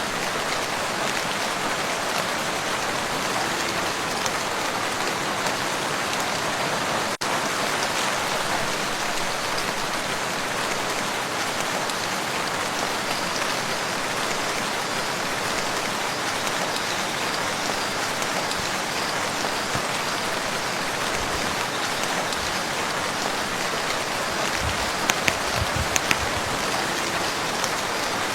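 Steady rain falling on a lake, an even dense hiss of drops on water. It dips for an instant about seven seconds in, and a few louder drops or taps stand out around 25 seconds in.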